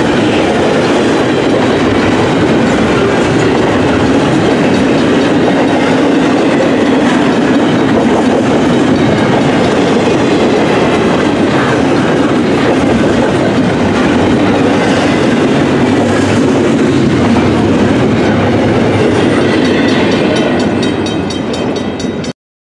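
Freight train's double-stack container well cars rolling past at trackside: a loud, steady rumble of steel wheels on rail, with faint clicks. It thins out as the end of the train goes by and then cuts off abruptly near the end.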